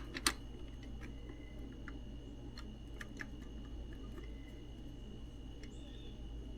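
Faint clicks and light ticks of small soldering tools handled against a circuit board while desoldering, over a steady low hum. One sharper click comes just after the start.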